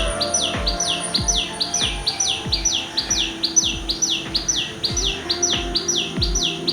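Background music with a steady low beat and held notes, with a bird-like chirp that falls in pitch and repeats evenly about three times a second.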